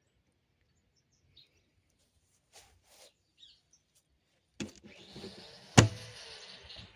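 Handling noises: a knock about four and a half seconds in, then rustling and scraping, and one sharp, loud knock near six seconds. Faint bird chirps in the background.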